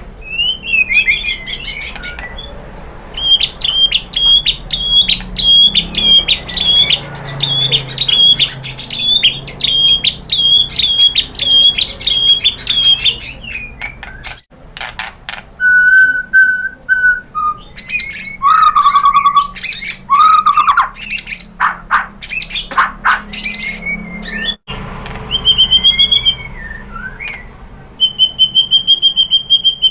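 White-rumped shama (murai batu) singing a loud, varied song: a short phrase repeated rapidly for about ten seconds, then clear low whistles mixed with sharp clicks, and a fast even trill near the end.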